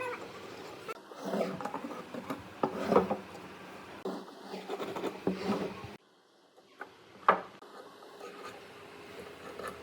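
Wood being handled: irregular knocks and scraping of wooden pieces, with no steady machine running. The sound drops away abruptly about six seconds in, then a few more sharp knocks follow.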